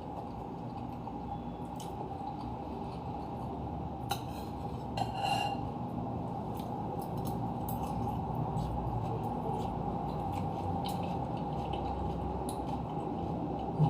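Faint clinks and clicks of a spoon against a bowl during eating, a small cluster about four to five seconds in, over a steady background hum.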